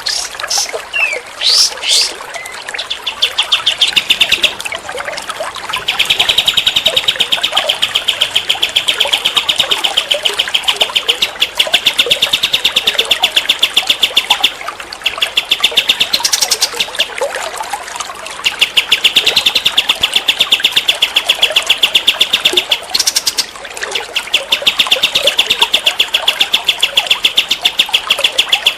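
A songbird singing long, rapid trills of evenly repeated high notes, each run lasting several seconds with short breaks between, after a few quick sweeping notes at the very start.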